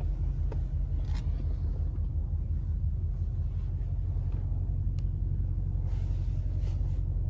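Mercedes-AMG GLE 63 S twin-turbo V8 idling, a steady low rumble heard from inside the cabin, with a few faint clicks.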